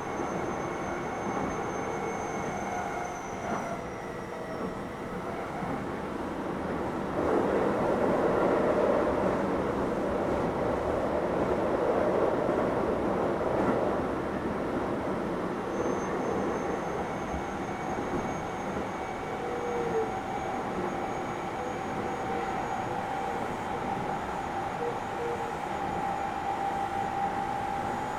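Keio 7000 series electric commuter train running, heard from inside the car: steady wheel-on-rail rumble with a thin motor whine. It grows louder from about seven to fourteen seconds in, and a new steady whine comes in about halfway through.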